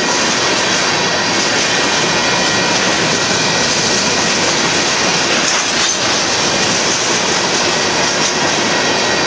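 Covered hopper cars of a freight train rolling past, steel wheels running on the rails in a steady loud noise.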